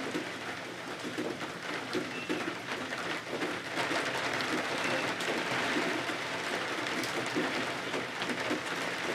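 Steady rain, a dense even patter with many small drop ticks, a little heavier from about four seconds in.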